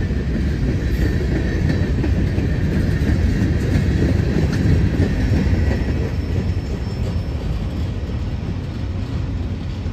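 Freight train cars rolling past at close range: a steady, loud rumble of steel wheels on the rail, with a faint high wheel squeal about halfway through. The rumble eases a little in the last few seconds.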